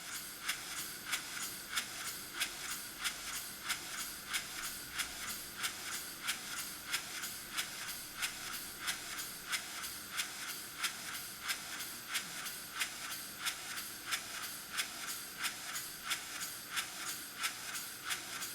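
Model table engine with a spool valve, running steadily on an air or steam supply: an even rhythm of hissing exhaust puffs, about two and a half a second.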